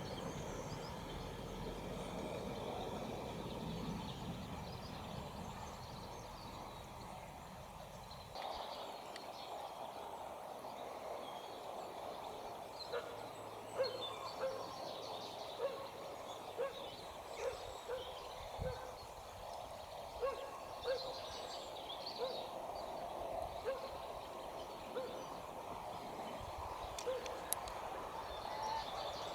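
A bird calling a long series of short, low notes, about one a second, over faint outdoor background noise. A low rumble is heard for the first eight seconds and then stops abruptly.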